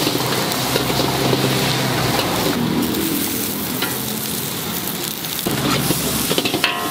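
Food sizzling steadily on a hot cast-iron pan: omelette-wrapped Pad Thai, fried egg, bean sprouts and prawns. Near the end a few sharp clicks come from a metal spatula working against the pan.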